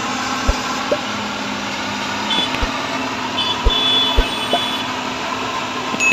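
Road traffic and heavy vehicle engines running steadily with a constant hum, broken by a few short low thumps and brief high-pitched horn or beeper tones.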